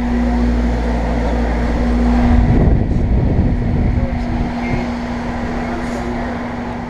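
Steady mechanical hum with one constant tone over a deep rumble; the rumble eases about two and a half seconds in.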